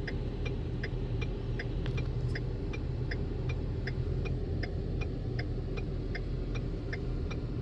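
A 2011 Ford E350's 5.4 L V8 idling with a steady low hum, heard from inside the cab, with a light, regular ticking about two to three times a second over it.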